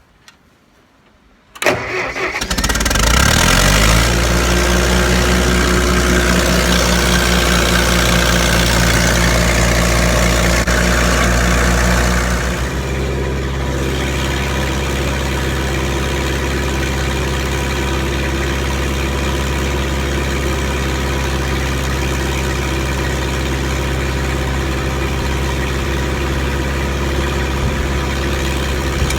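Massey Ferguson 50 tractor engine starting: a brief crank, then it catches about two seconds in and speeds up to a fast, steady run. About twelve seconds in it drops back to a slower, steady idle.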